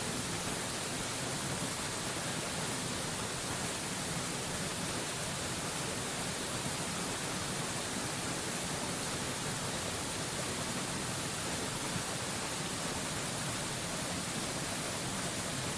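Waterfall white noise: a steady, even rush of falling water with no change or break, bright and hissy in the highs.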